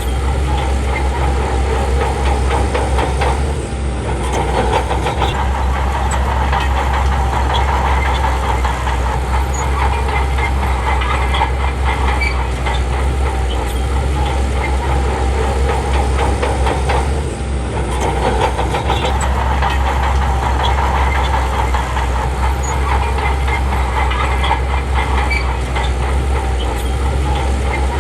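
Crawler bulldozer's diesel engine running hard, with its steel tracks clanking continuously. The level dips briefly twice, about four seconds in and again near seventeen seconds.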